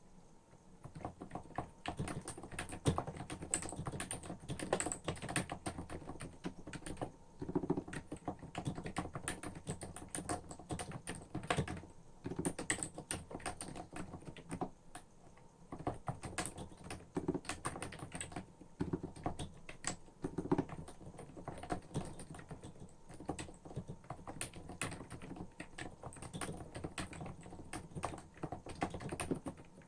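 Typing on a Hansung CHF7 OfficeMaster electrostatic capacitive keyboard with 50 g switches and lubed stabilizers: fast runs of keystrokes with a few short pauses.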